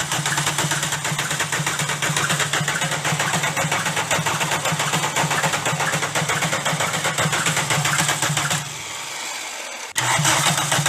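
Volkswagen Golf diesel engine running with a rapid, even knock, the sign of worn connecting-rod bearing shells. Near the end the engine sound drops away for about a second, then returns abruptly.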